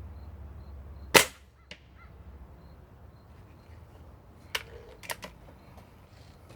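A single sharp shot from a .22 caliber Crosman Valiant Elite pellet rifle about a second in, then a faint tick about half a second later. A few smaller clicks follow near the end.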